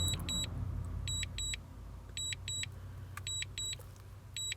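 DJI remote controller beeping in quick double beeps, about one pair a second, the alert that the drone is in Return-to-Home. A low steady rumble runs underneath.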